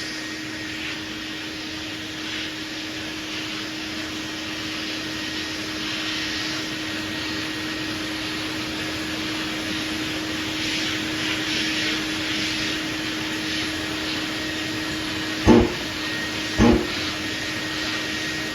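A vacuum runs with a steady hum, hooked to the sanding setup. Over it, 180-grit sandpaper on a long sanding block rasps in light back-and-forth strokes across a guide-coated metal panel. Two sharp knocks come about a second apart near the end.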